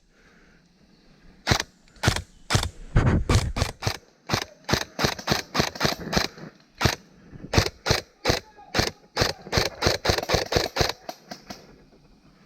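Airsoft gun firing a long string of single shots, sharp clicks about two a second with an uneven rhythm, starting about a second and a half in and stopping shortly before the end.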